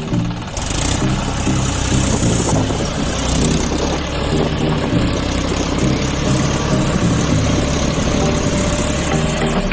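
Engine idling with a steady low drone.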